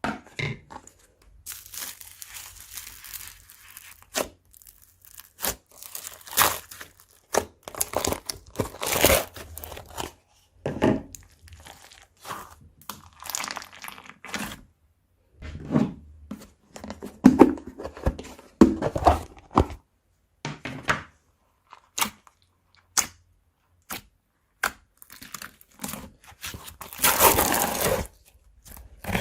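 Crunchy slime being mixed, in irregular bursts of crackling and crunching with short pops and clicks between pauses; the longest, loudest burst comes near the end.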